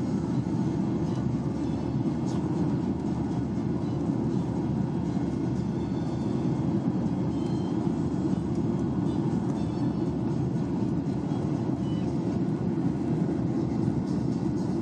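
Steady cabin noise of a Boeing 737-800 in flight: an even, low rumble of airflow and engine sound from its CFM56-7B engines.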